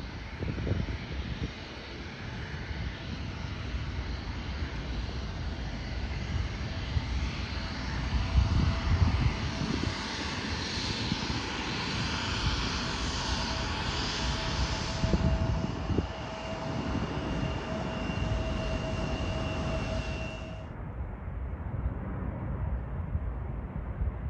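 Jet airliner engines running: a rushing roar with a steady high whine over it that builds toward the middle. The high whine and hiss cut off suddenly near the end, leaving a duller rumble.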